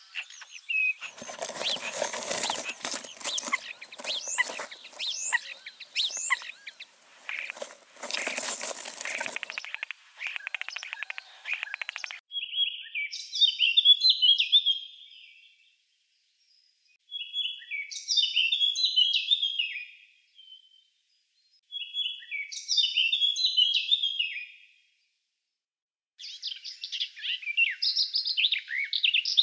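Forest songbirds calling and singing. For the first dozen seconds there is busy chirping over a noisy background. Then comes the same short song phrase three times, each about three seconds long with gaps of about two seconds. A different, faster run of notes starts near the end.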